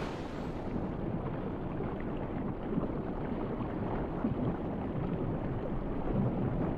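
Muffled, rumbling sea-water noise, steady and without tones, dulled a little under a second in as if heard underwater.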